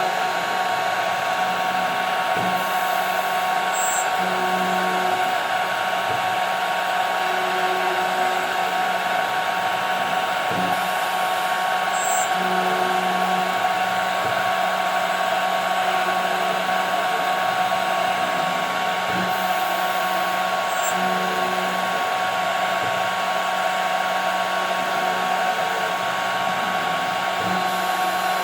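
CNC router spindle running with a steady high whine while it cuts 5 mm plexiglass, over a constant machine hiss. Short low hums from the axis motors come and go, and the pattern repeats about every eight to nine seconds with a faint knock in each cycle.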